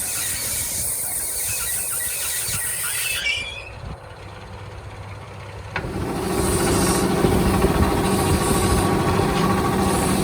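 A machine motor starts up suddenly about six seconds in and runs steadily with a low hum. Before it, a rougher, noisier mechanical sound fades out.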